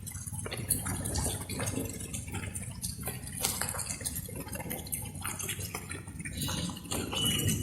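Light rain dripping: irregular water drops falling and splashing one after another, over a steady low background of rain.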